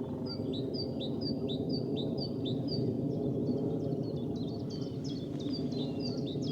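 A small songbird repeating a short, high, falling note about twice a second, turning to softer, mixed chirps after about three seconds, over the steady low drone of a plane overhead.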